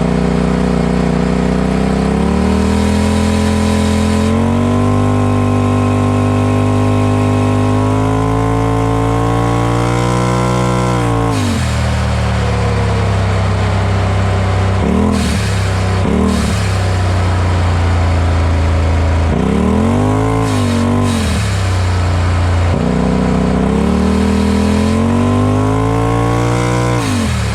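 2020 Polaris RZR Pro XP4's turbocharged twin-cylinder engine through a Gibson aftermarket exhaust, pulling hard with its pitch climbing for about ten seconds, then cut off sharply as the throttle closes. A brief hiss at each lift-off is the Aftermarket Assassins blow-off valve venting turbo boost. It blips twice in the middle, revs up and drops again, then climbs once more near the end before dropping off sharply.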